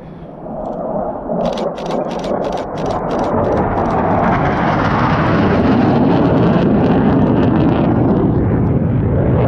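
Low-flying military jet passing close by: its roar builds over the first few seconds and then holds loud. A rapid run of camera shutter clicks, about four a second, sounds over it from about one and a half to three and a half seconds in.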